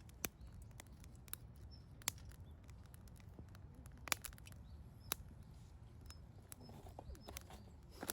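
Wood campfire crackling quietly, with a dozen or so sharp, irregular pops and snaps over a low steady rumble; the loudest pops come about two and four seconds in.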